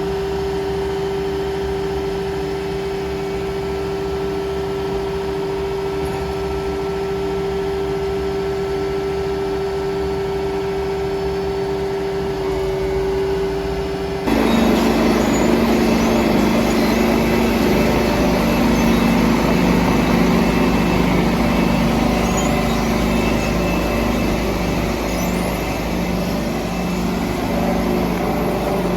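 Diesel engine of a BOMAG BF 350 C-5 asphalt paver running steadily; about halfway through it suddenly becomes louder and rougher and stays that way.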